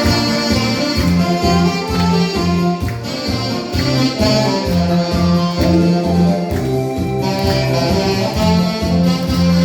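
Saxophones playing a Korean trot melody over a band accompaniment with a steady, regular bass beat.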